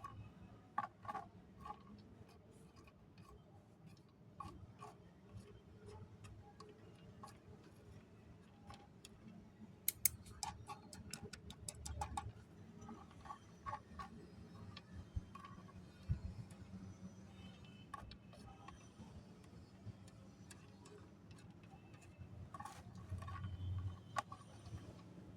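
Small dry pieces of namkeen snack mix clicking and tapping as they are sorted, in scattered light clicks with a quick run of clicks about ten seconds in.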